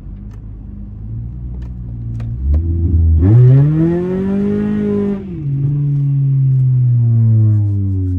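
Straight-piped 2.4 L inline-four of a 2004 Honda Accord under hard acceleration. The exhaust note climbs quickly in pitch from about two and a half seconds in and holds high. It then drops sharply a little past five seconds as the automatic transmission upshifts, and settles to a lower note that eases off near the end.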